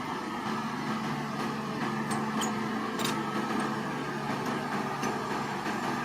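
Heavy machine's diesel engine running steadily with a low hum, with a few sharp metallic clicks about two and three seconds in.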